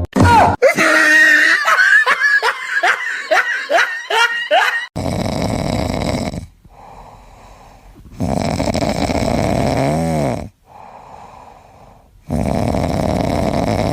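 A few seconds of quick, high, squeaky laughter-like calls, then loud snoring: three long snores about four seconds apart.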